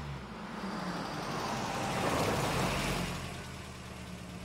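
A motor vehicle's engine running as it drives up, the noise swelling to its loudest about two seconds in and then settling to a steady idle.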